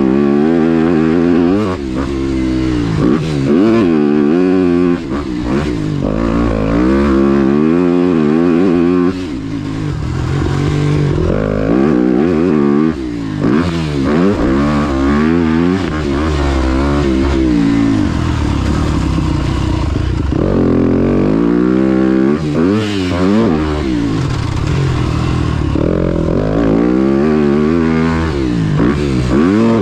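Dirt bike engine ridden hard around a motocross track, the revs climbing and dropping again and again through the gears, with some clatter.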